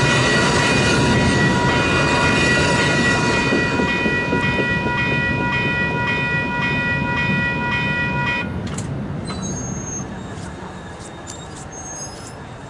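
Amtrak bi-level passenger cars rumbling over the crossing, the sound fading as the last car clears. Over it a WCH type 2 electronic crossing bell rings at about two strikes a second and cuts off about eight seconds in.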